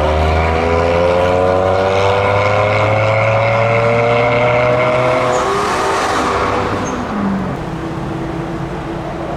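Car engine exhaust pulling away, its note rising slowly for about five seconds and then fading, leaving a lower, steady engine drone.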